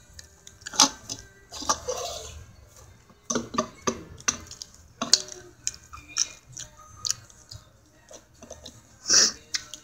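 Close-up eating noises: chewing with wet mouth clicks and crunchy snaps at irregular intervals, the loudest about nine seconds in.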